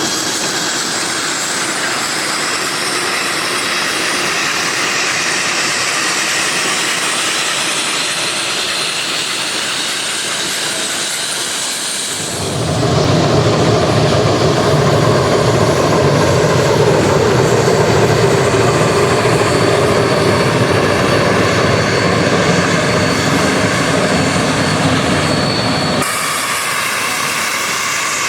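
Geared steam logging locomotive working past, a loud steady rushing noise of exhaust and running gear. About twelve seconds in it changes suddenly to a louder, deeper rumble, then switches back shortly before the end.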